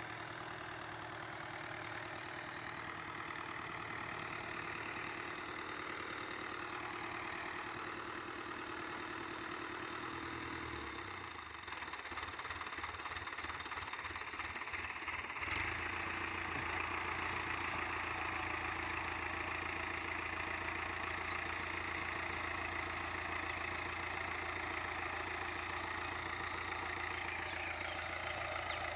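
An engine running steadily with a regular low throb. About halfway through it settles into a louder, deeper hum.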